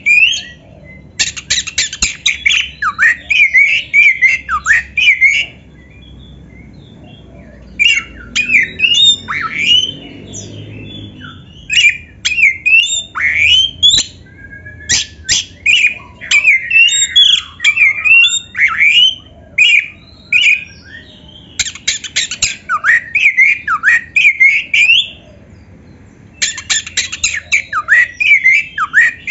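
Oriental magpie-robin (kacer) singing in bursts of a few seconds. Each burst is a run of quick gliding whistles mixed with sharp clicking notes, with short pauses between them.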